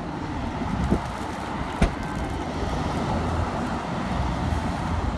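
Car driving: steady engine and road noise, with a sharp click a little under two seconds in.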